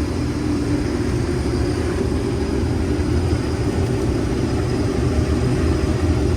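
A vehicle engine running steadily, a continuous low rumble with no change in speed.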